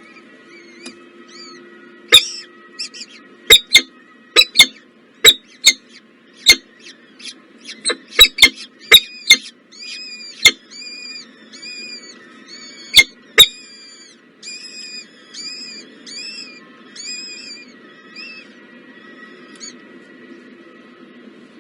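Nestlings in a nest giving a run of high, arched chirps about twice a second. Many loud, sharp clicks come in among them, thickest in the first half.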